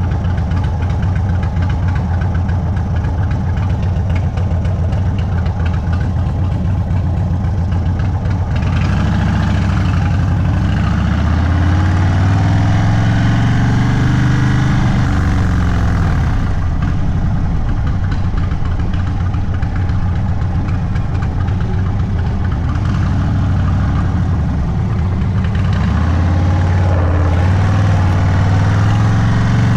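Indian Sport Chief V-twin with a Sawicki Speed aftermarket exhaust, idling with a steady lumpy rumble, then pulling away about nine seconds in, its pitch rising and falling as it accelerates and eases off, with another rise near the end.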